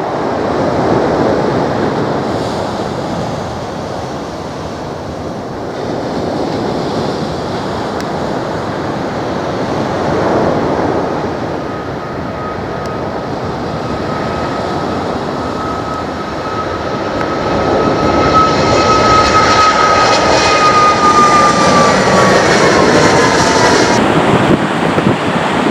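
Boeing 737 MAX 8 with CFM LEAP-1B turbofans departing at takeoff power: a broad jet rush that swells and grows louder, with a high whine that drops in pitch near the end as the jet passes. The sound changes abruptly just before the end.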